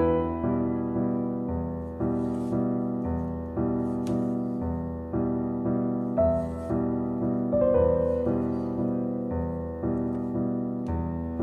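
Gentle piano music, notes struck about twice a second and left to ring and fade.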